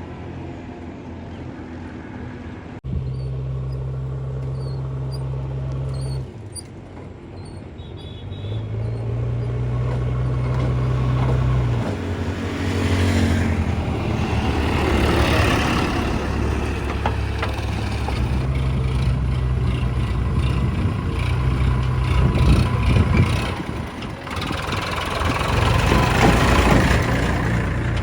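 Heavy diesel machinery of a backhoe loader at work, with a tractor alongside. A deep engine hum jumps abruptly in pitch and level several times, and from about halfway the sound turns rougher and noisier, with the engines pulling harder.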